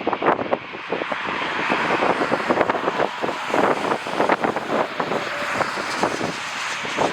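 Passenger jet engine noise mixed with heavy gusts of wind buffeting the microphone. The engine's rushing sound fills out about a second in and stays steady.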